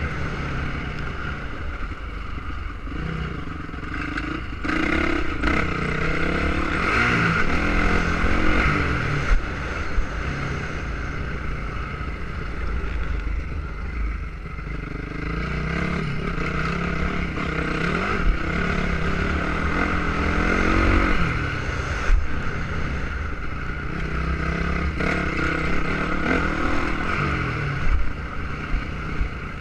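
Motocross motorcycle engines revving up and falling back again and again as the bikes are ridden around the dirt track.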